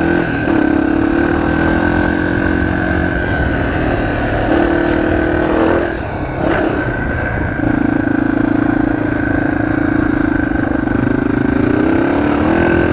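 Motorcycle engine running at a low, steady speed, heard through a microphone inside the rider's helmet. The engine note eases off and changes about three seconds in and again around six seconds in, then holds steady.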